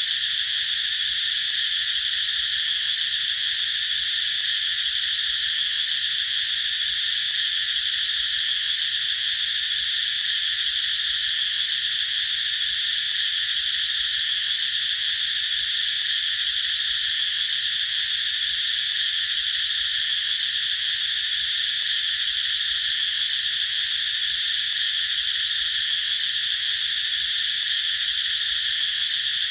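Chorus of cicadas singing in trees: a steady, continuous high-pitched buzz that holds at the same level without a break.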